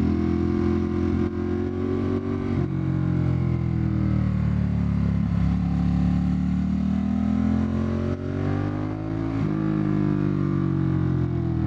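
Ducati Monster 1200's L-twin engine running under way, its pitch shifting with throttle and gear changes: a sudden drop about two and a half seconds in, a slow fall and rise through the middle, and further drops and climbs near the end.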